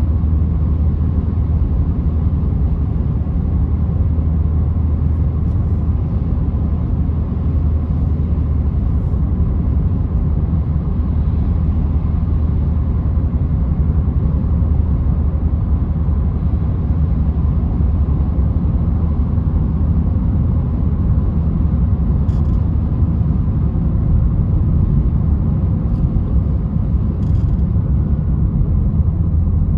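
Citroen C3 1.4 VTi's four-cylinder petrol engine running steadily: a constant low rumble that holds its pitch, with no revving.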